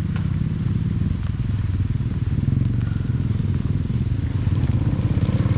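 Trail motorcycle engine running at low revs with a fast, even firing pulse, growing a little louder in the second half.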